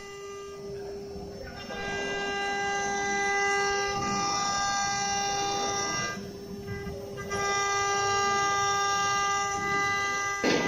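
CNC router running under test: a steady high-pitched machine whine with a noisy rush beneath it. The fuller, brighter whine drops away twice for about a second, near the start and in the middle, then returns.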